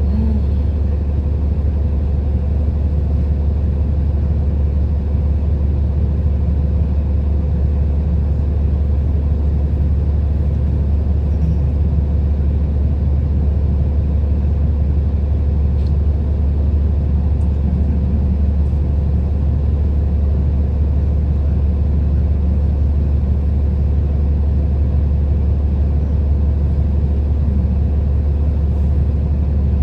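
City bus heard from inside the cabin while riding: a steady, deep engine and road rumble with a constant hum above it.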